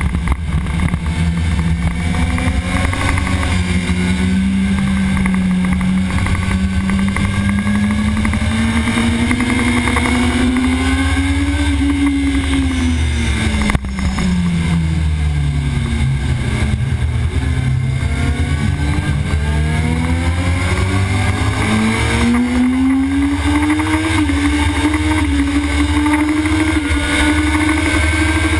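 Sport bike engine at high revs, heard from on board at racing speed. Its pitch climbs, drops away through the middle, then climbs again as the bike accelerates past 230 km/h on the straight. A heavy low rumble runs underneath.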